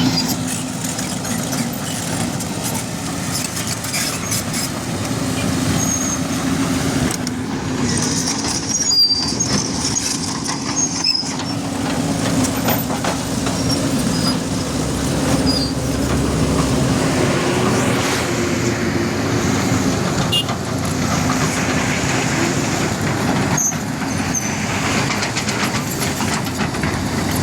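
Bulldozer's diesel engine running steadily at work, with scattered short high squeaks and metallic clicks over it.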